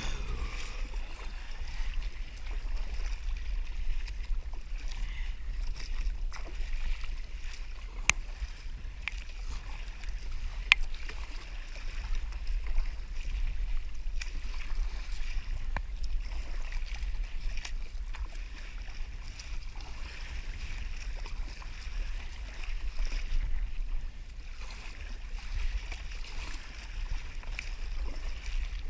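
Water lapping against a kayak hull with a steady low wind rumble on the microphone, and a few sharp knocks on the boat.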